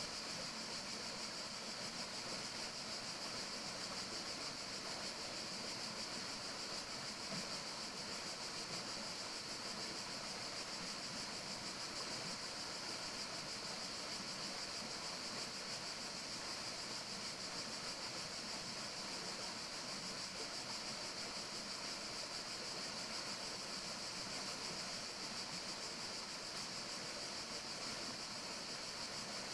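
Steady, even rushing hiss of a forest nature-sound ambience, brightest in a high band, with no distinct calls or other events.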